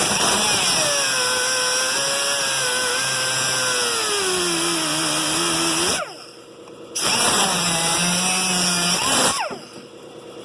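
Angle grinder with a cutting wheel working the metal of a rust patch, its whine sagging lower in pitch as it bears down. It stops about six seconds in, runs again a second later, and winds down near the end.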